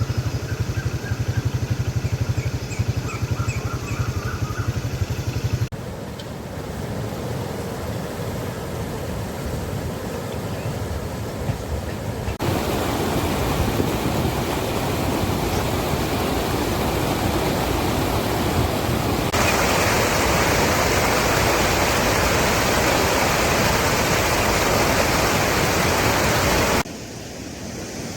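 Floodwater rushing after heavy rain, a steady loud rush that changes level abruptly several times and is loudest in the last stretch before dropping back near the end. For about the first six seconds an engine running with a low pulsing note is the loudest sound.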